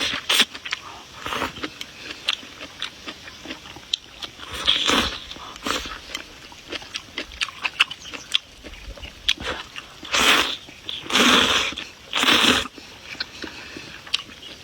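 Close-miked eating sounds: chewing and biting, with many small wet clicks and smacks. Four louder, rushing bursts of about half a second each come near the middle and in the last few seconds.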